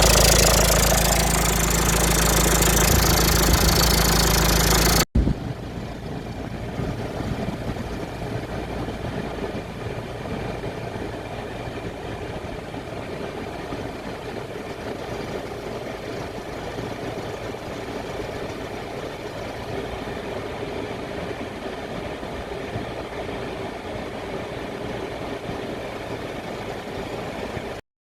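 About five seconds of loud music, cut off sharply, then a Citroën C4 Grand Picasso's engine idling steadily with a rattle. The owner suspects a failing auxiliary belt tensioner.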